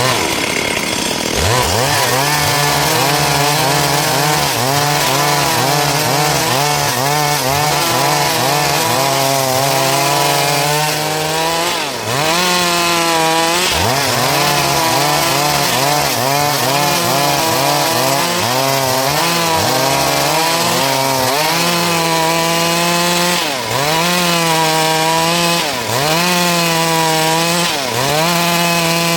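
Stihl MS382 two-stroke chainsaw running at full throttle while cutting dry wood. The engine note sags under load and climbs back as the cut eases, repeatedly and more markedly in the second half.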